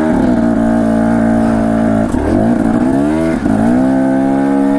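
Dirt bike engine running under load at a steady pitch. About two seconds in the revs drop, then climb back up and hold.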